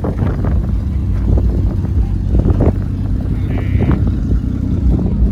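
A vehicle engine running with a steady low hum, with scattered short knocks and rustles over it and a brief higher-pitched tone about three and a half seconds in.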